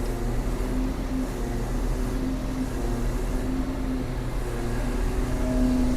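Excavator's diesel engine running steadily, a low even hum with a held tone that swells slightly now and then.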